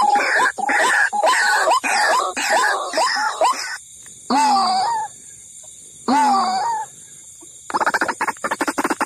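White-breasted waterhen (ruak-ruak) calls played as a lure: a fast string of short repeated notes, then two longer calls with a pause between them. Near the end comes a rapid run of pulses, about ten a second.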